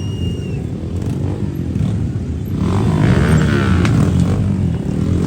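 A motor vehicle engine running close by, getting louder about two and a half seconds in as it passes. At the start, a held whistle note ends about half a second in.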